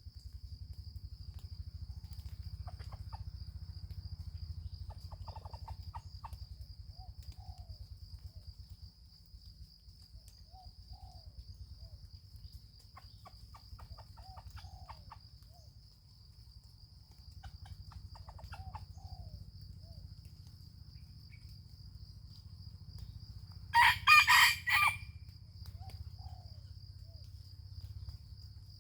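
A junglefowl rooster crows once, loudly, about 24 seconds in. Fainter short clucking calls come earlier, over a steady high-pitched insect drone.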